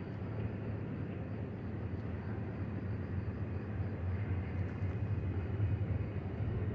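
Union Pacific double-stack intermodal freight train rolling past: a steady low rumble of wheels on the rails.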